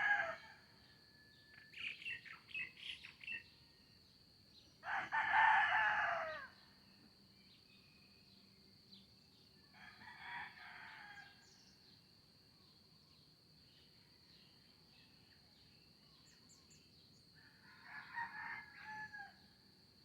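Roosters crowing several times: one loud crow about five seconds in, fainter crows around ten and eighteen seconds, and a run of short bird chirps about two seconds in. A steady high-pitched whine runs underneath.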